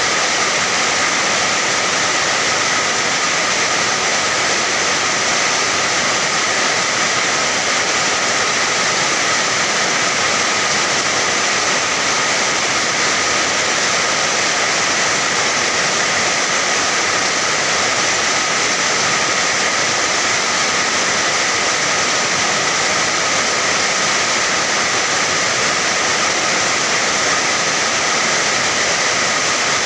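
Steady rain: an even hiss that holds the same level throughout, with no single drops standing out.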